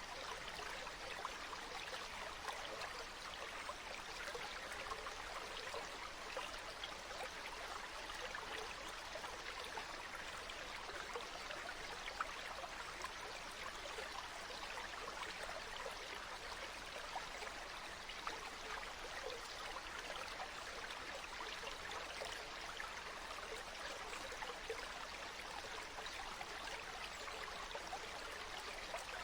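Water flowing steadily in a stream, a continuous trickling rush.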